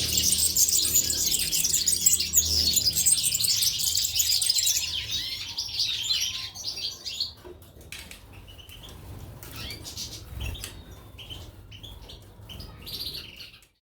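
Caged goldfinches and canaries chirping busily, the chorus thinning after about five seconds to scattered chirps and clicks. The sound cuts off just before the end.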